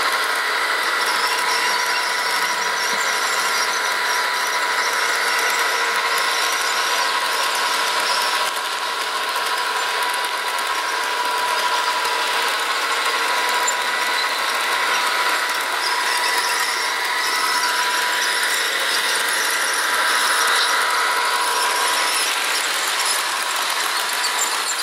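Walthers Proto HO scale EMD E7A model locomotive's DCC sound decoder playing a steady diesel engine sound through its small speaker. The sound is thin with no deep bass and carries steady high whining tones over a hiss.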